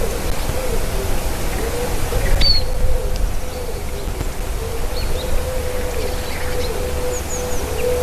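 Wild birds: a run of soft, low, repeated cooing or hooting notes, with a few brief high chirps from small birds, over a steady low rumble of wind.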